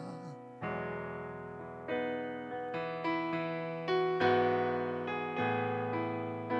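Electric piano playing slow, sustained worship chords, struck about once a second and left to fade.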